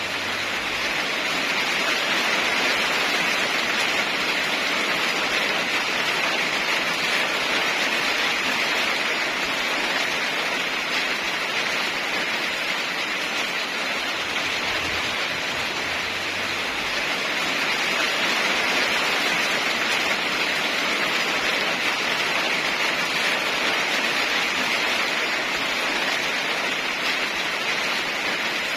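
Heavy rain falling steadily, an even hiss that swells slightly and eases, with no thunder.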